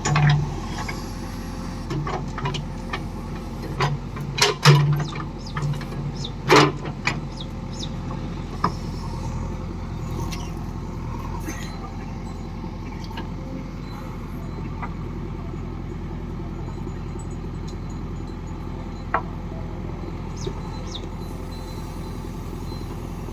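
Diesel engine of a farm machine running steadily, with a series of sharp metallic knocks and clanks in the first several seconds and one more knock near the end.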